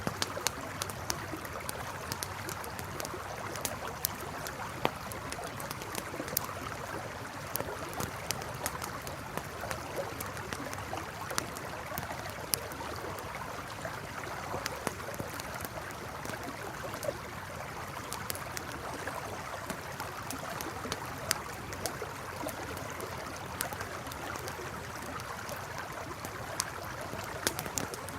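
Steady rushing of a flowing river, with a campfire crackling over it: frequent irregular sharp pops and snaps.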